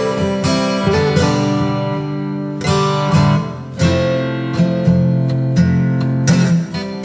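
Background music: acoustic guitar strumming and plucked chords, with a repeated rhythm of strums.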